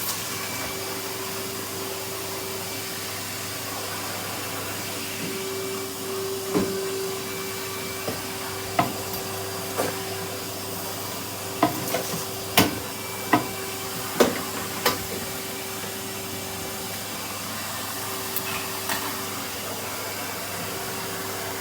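Vacuum cleaner running steadily with a constant hum. About a dozen sharp clicks and knocks come through between about six and fifteen seconds in.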